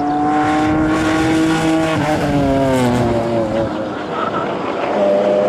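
BMW 130i rally car's 3.0-litre straight-six engine running hard as the car drives past. Its note holds steady, then drops away in pitch about two seconds in as the car heads off.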